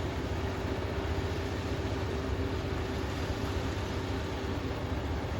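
Kubota ER470 combine harvester's diesel engine and machinery running steadily, a continuous low drone. A higher steady tone on top of it fades out about three seconds in.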